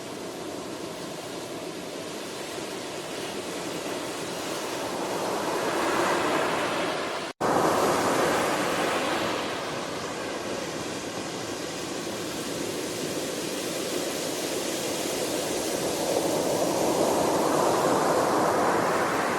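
Ocean waves washing onto a shore in slow swells, each surge building and then receding, with a split-second dropout about seven seconds in.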